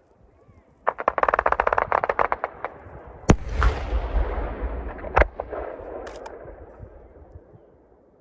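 Aerial fireworks: a rapid string of crackling pops for about two seconds, then a loud shell burst with a long rolling rumble, and a second sharp bang about two seconds after it.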